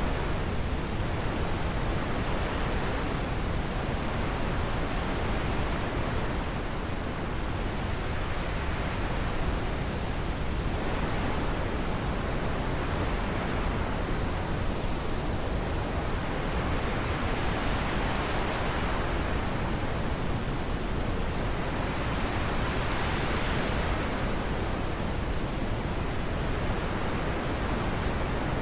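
Wind blowing steadily in gusts, a continuous rushing that swells and eases every few seconds.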